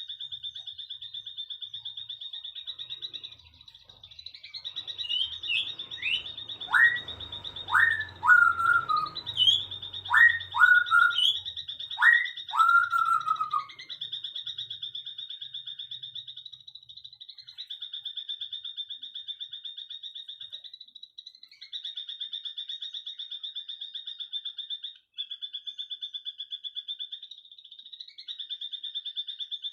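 A bird gives a run of loud whistled notes, each sweeping sharply down in pitch before levelling off, over a steady, fast-pulsing high trill that runs on throughout with two short breaks near the end.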